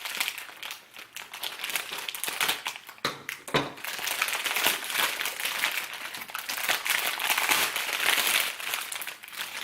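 Packing tape being pulled off and plastic packaging crinkling while a taped-up shipping box is opened: a continuous crackly rustle that gets busier about four seconds in.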